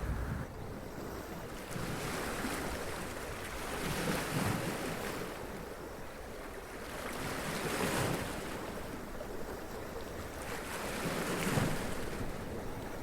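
Sea waves running up onto rocks and splashing, a steady wash of surf that swells several times as waves break in, the loudest near the end.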